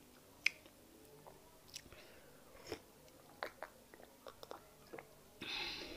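Close-miked mouth sounds of a person eating fufu with peanut soup: scattered wet clicks and smacks of chewing, then a louder breathy rush lasting about half a second near the end.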